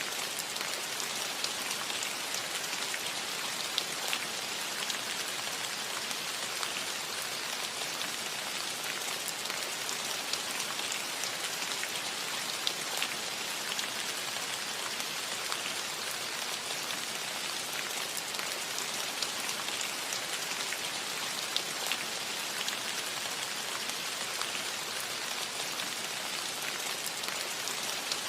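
Steady rain on a cottage roof: a dense, even hiss with scattered sharper taps of individual drops.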